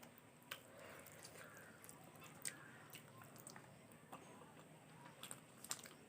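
Faint, close-up chewing of a mouthful of rice and curry, with a few sharp soft clicks of the mouth.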